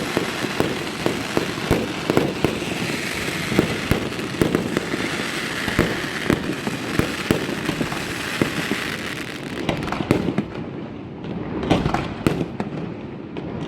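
Fireworks display going off: a dense run of overlapping bangs over a steady hiss, thinning to scattered bangs about ten seconds in.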